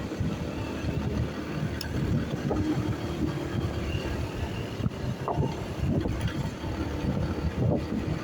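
Motorcycle engine running while riding, with a gusty rumble of wind buffeting the microphone over a faint steady engine tone.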